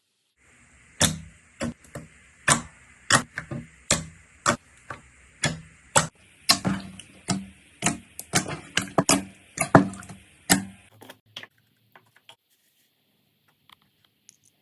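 Slime being pressed and worked by hand, giving sharp clicking pops about twice a second over a steady hiss. The clicking stops about eleven seconds in, leaving only a few faint clicks.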